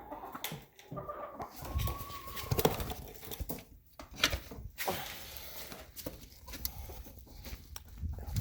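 Chickens clucking as they gather at a feed of whole corn and oats, with scattered sharp clicks and knocks throughout.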